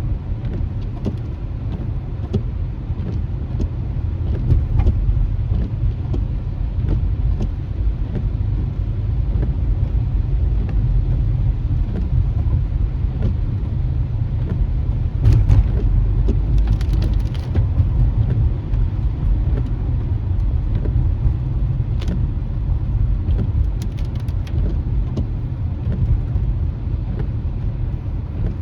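Steady low rumble of road and engine noise inside a moving car's cabin, heard through a phone mounted on the windshield during a drive on rain-wet streets, with scattered faint ticks and a few sharper clicks over it.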